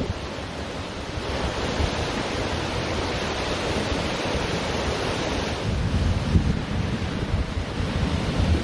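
Ocean surf washing onto a beach in a steady roar, swelling and easing as waves break. Gusty wind buffets the microphone with a low rumble, heavier in the second half.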